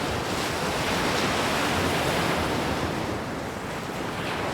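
Sea surf washing in, under strong wind buffeting the microphone; the rush swells in the first half and eases a little near the end.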